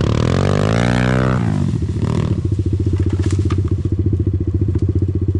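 Dirt bike engine revved once, rising and falling back within the first second and a half, then idling steadily close by.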